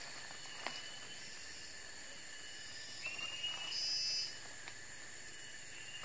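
Small birds calling in the forest: short high whistles, one rising about three seconds in, followed by a brief, louder, high buzzy call, over a faint steady hiss of insects and leaves.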